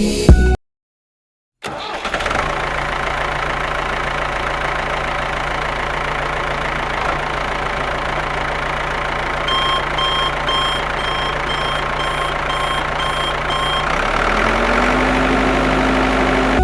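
Steady engine running sound with a constant low hum. About halfway through comes a run of about ten short, evenly spaced electronic beeps. Near the end the hum steps up in pitch, as if revving slightly.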